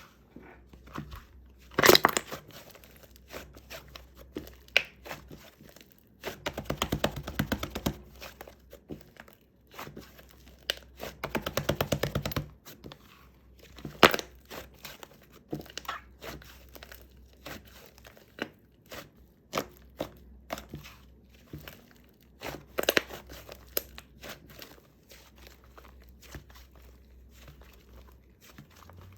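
Marshmallow slime being squeezed and stretched by hand: irregular crackling and popping of trapped air, with a few sharp loud pops and two longer spells of dense, rapid crackling.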